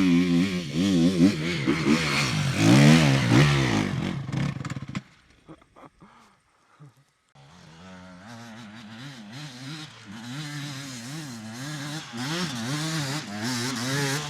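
Yamaha YZ250 two-stroke dirt bike engine revving up and down hard on a climb. About five seconds in the sound drops away for a couple of seconds, then the engine is heard again, quieter at first and building as it revs.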